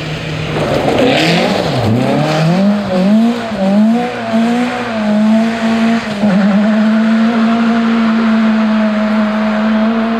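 Rally car engine revving hard, its pitch dipping and climbing several times as it changes gear and works through a corner, then held at a steady high note as it accelerates away. A short burst of noise about a second in, with some tyre squeal.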